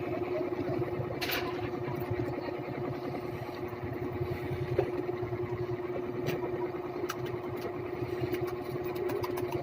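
Steady mechanical hum: a constant tone over a low, dense rumble, like a motor running, with scattered small clicks and crackles over it.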